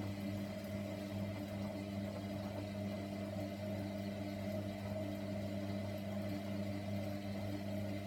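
Hoover washer dryer's drum motor running with a steady hum, turning the drum during the main wash.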